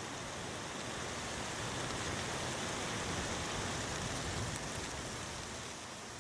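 Wind rushing through pine trees: a steady, airy hiss that swells gently toward the middle and eases off near the end.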